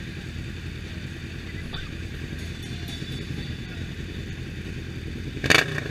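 Motorcycle engines running steadily in a low rumble. Near the end there is one short, loud burst of noise.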